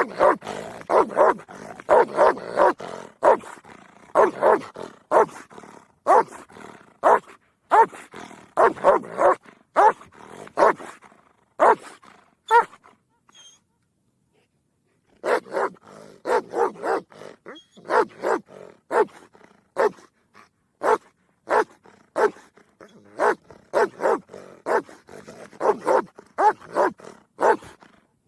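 Cartoon sound effects of an animal: a rapid string of short, sharp calls, with a silent break of about two seconds midway.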